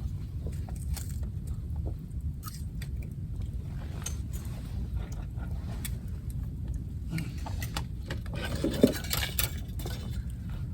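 Light metal clinks and rattles of camp gear being handled, scattered throughout, with a denser, louder clatter near the end, over a steady low rumble.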